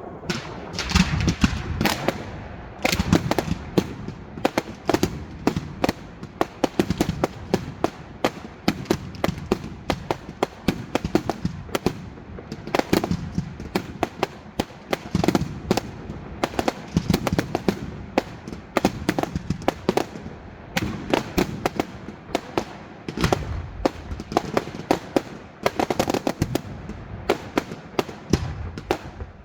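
Fireworks display going off: a continuous dense crackle of sharp reports, with a deep boom every couple of seconds.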